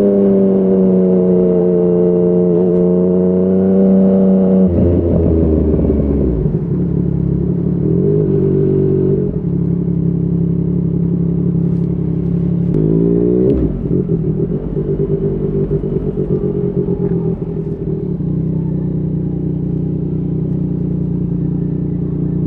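Yamaha MT-09's three-cylinder engine through a Yoshimura R55 slip-on exhaust, running at steady high revs, then dropping sharply in pitch about five seconds in as the throttle closes. It settles into steady running at lower revs, with a quick rise in pitch that cuts back about halfway through.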